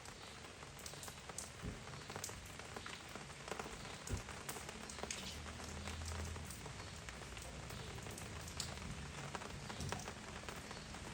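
Heavy rain falling steadily, with many separate drops tapping sharply on a hard surface.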